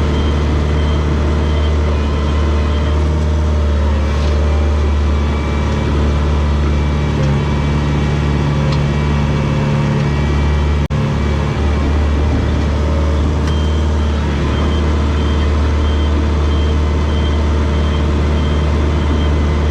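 Komatsu D21 bulldozer's diesel engine running steadily, with a brief dropout about eleven seconds in.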